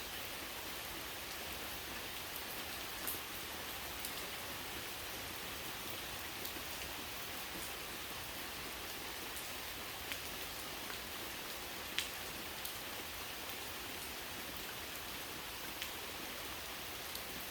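Steady rain falling, a continuous hiss with scattered sharp drop ticks; the loudest tick comes about twelve seconds in.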